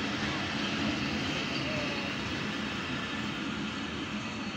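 Passenger train moving along the track, a steady running noise of the train that eases slightly toward the end.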